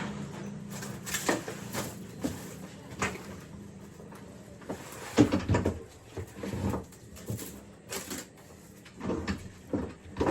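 Irregular knocks and clatter of parts being handled and set down in a workshop, over a low steady hum.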